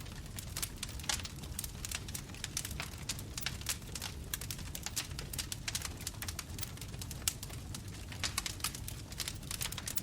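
Bonfire burning: frequent irregular wood crackles and pops over a steady low rumble of flames.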